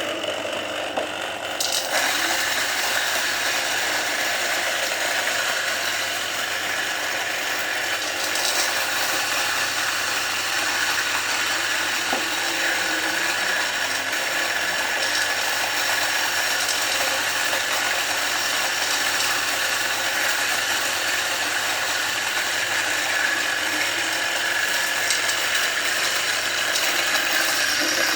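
Coffee grinder driven by a salvaged washing-machine motor, running steadily with a dense mechanical whirring; the sound fills out and grows louder about two seconds in.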